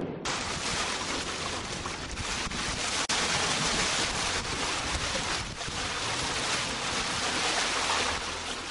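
Steady rush of wind and water aboard a sailboat under way, with wind noise on the microphone. It starts abruptly.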